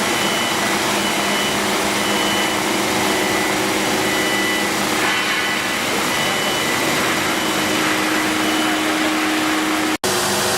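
Two-motor automatic polishing machine grinding the steel surface of a pressure vessel: a steady motor whine over a loud abrasive hiss, cutting out for an instant near the end.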